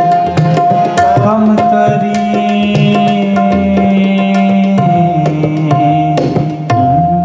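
Instrumental kirtan interlude: tabla playing a steady rhythm of quick strokes under a harmonium's held, sustained melody notes.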